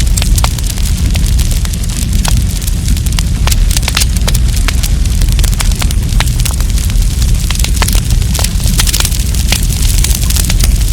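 Wood campfire crackling, with frequent sharp pops and snaps scattered irregularly over a steady low rumble.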